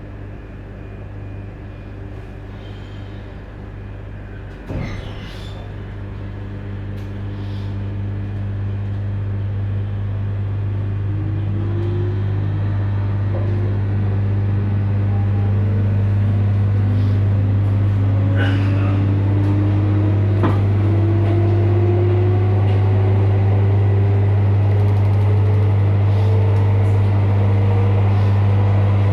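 JR 721 series electric train running, heard from on board: a steady low hum with a motor whine that rises steadily in pitch and grows louder as the train gathers speed. A single knock about five seconds in.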